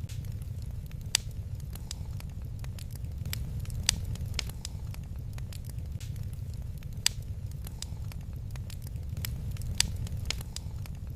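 Wood fire crackling in a fireplace: a steady low rumble of flames with irregular sharp pops and snaps, the loudest about a second in, near four seconds, near seven and near ten seconds.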